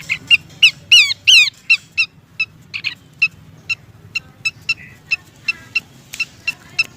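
Horsfield's babbler (pelanduk semak) calling. It gives a quick series of short, sharp chip notes, about three a second, with a couple of louder downslurred whistles about a second in. The uploader offers it as a female calling to a male.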